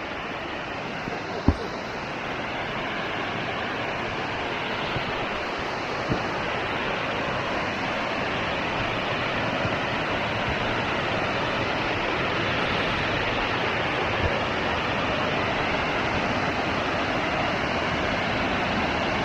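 Waterfall rushing steadily, slowly growing louder, with a few short knocks, the sharpest about a second and a half in.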